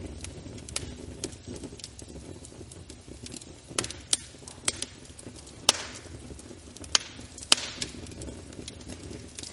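Fire burning in a fireplace: a steady low rumble with irregular sharp crackles and pops, a few louder pops in the second half.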